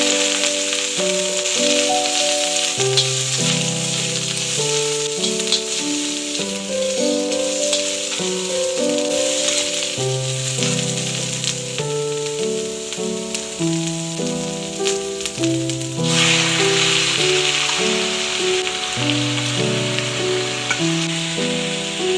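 Sliced onion and ginger sizzling in hot oil in a wok, a steady frying hiss that grows louder about two-thirds of the way through. Gentle piano music plays over it.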